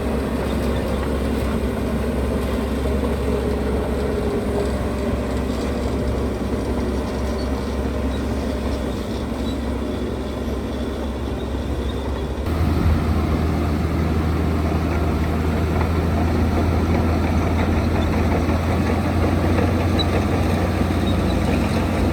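Diesel engines of heavy earthmoving machinery running steadily. A little over halfway the sound shifts abruptly to a louder, deeper drone.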